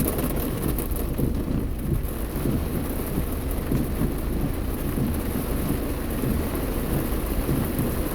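Heavy rain pelting a car's roof and windshield, heard from inside the cabin, over a steady low rumble.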